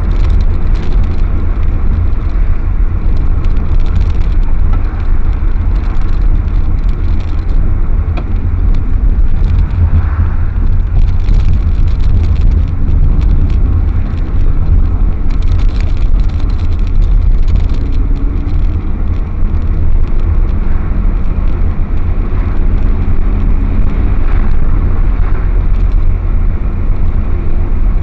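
Car driving: a steady, loud low rumble of road and engine noise, with a faint engine hum rising in the second half.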